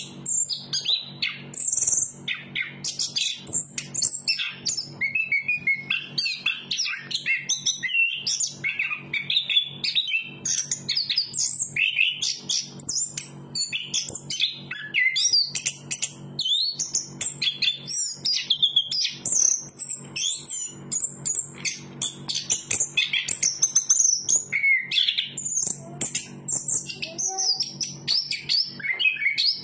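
Chestnut-capped thrush singing a long, unbroken run of quick, varied whistles and trills, with a brief pause a little past halfway. A faint low steady hum runs underneath.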